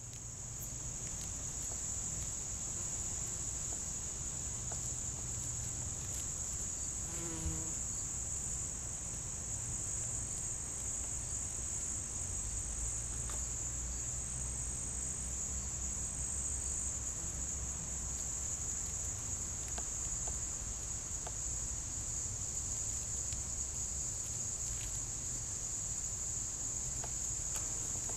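Steady, unbroken high-pitched insect chorus over a low background rumble, with a brief rising sound and a click about seven seconds in.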